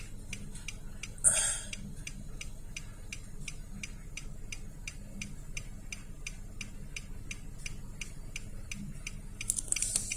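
Steady, rapid mechanical ticking, about three to four ticks a second, with a brief louder rustle about a second in and a hiss near the end.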